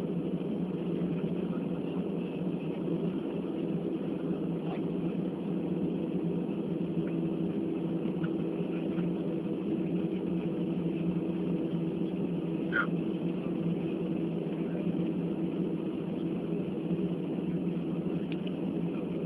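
Steady low drone inside a jet airliner's cabin on the ground after landing: idling engines and air conditioning hum evenly, with a brief high squeak about two-thirds of the way through.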